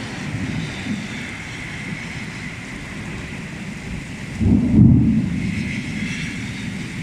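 Thunderstorm: a steady rush of rain and wind, with a loud low rumble lasting under a second about four and a half seconds in.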